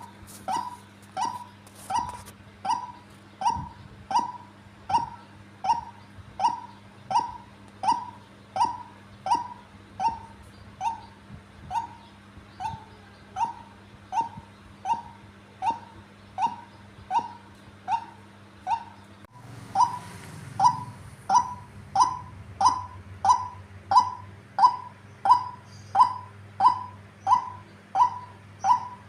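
Female white-breasted waterhen calling: a long, even run of short, harsh notes, each dropping in pitch, a little over one a second. The calls grow louder from about two-thirds of the way in.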